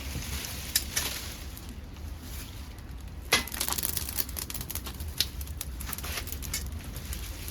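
Dead podocarpus (maki) wood burning in a homemade pail-can secondary-combustion wood gas stove: a fire crackling with sharp pops at irregular intervals, the loudest a little over three seconds in, over a steady low rumble.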